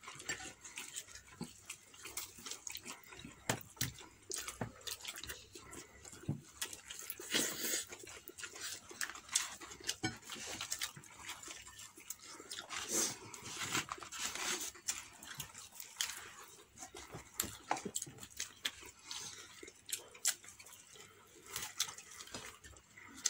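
Close-up eating sounds: a person chewing and crunching crispy fried chicken, with many short clicks and crackles and a few longer crunchy stretches.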